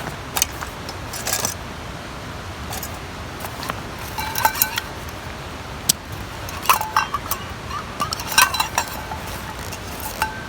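Small metal objects clinking and rattling in several short clusters, some strikes ringing briefly. Behind them runs a steady rushing hiss.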